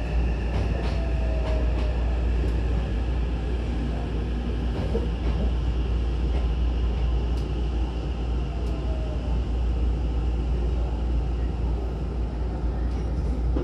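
Inside a Hankyu 9000-series commuter train as it runs and slows into a station: a steady low rumble, a faint falling whine from the traction motors, and scattered clicks of the wheels over rail joints.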